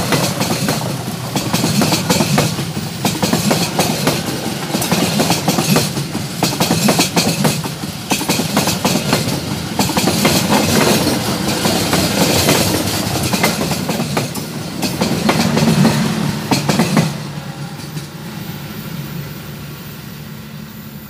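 Passenger train carriages passing close by on the rails: a loud rumble with rapid clickety-clack from the wheels. About 17 seconds in, the last carriage goes past, and the sound drops to a fading rumble as the train moves away.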